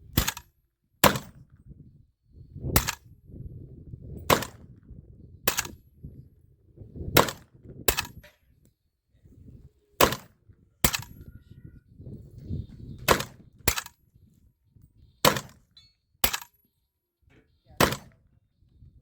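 Arsenal SAM7SF AK-pattern rifle in 7.62x39 firing subsonic 220-grain rounds. About fourteen single shots come at an uneven pace, roughly one every second or so, each a sharp crack with a low rumbling tail.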